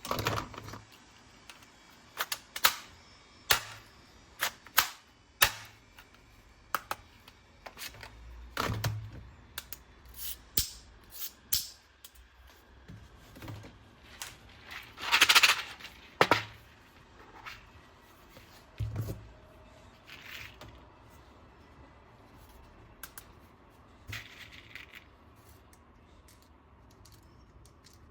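Hard plastic toy parts and packaging being handled: an irregular run of sharp clicks and taps, with a louder rustling clatter about fifteen seconds in, then fewer, softer taps.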